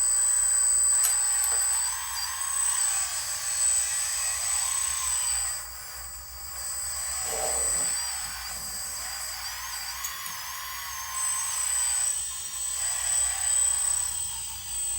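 Electric motor and hydraulic pump of a radio-controlled model excavator whining steadily, its pitch wavering up and down as the hydraulics are worked.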